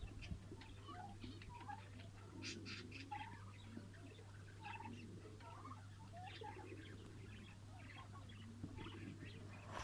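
Lovebirds chattering: a faint, continuous run of short squeaky chirps and scratchy calls, over a steady low electrical hum.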